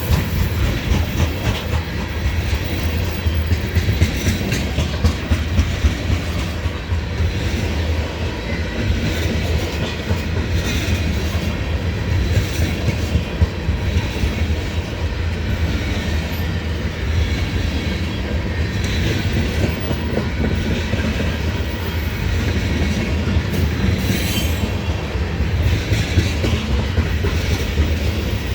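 Freight train of ethanol tank cars rolling steadily past, with a continuous rumble and the wheels clacking over the rail joints.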